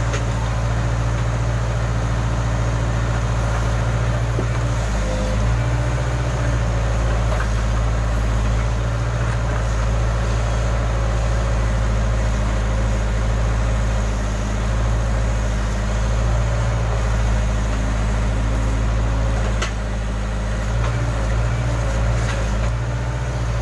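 Diesel engine of a Case backhoe loader running steadily, its note shifting slightly a few times.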